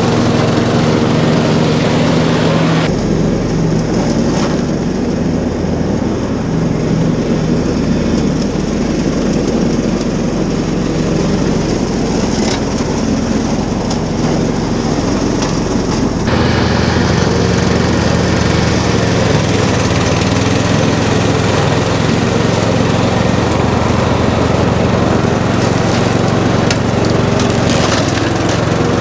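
Ride-on lawn mower engine running steadily while mowing. The sound changes abruptly twice, about three seconds in and again a little past halfway.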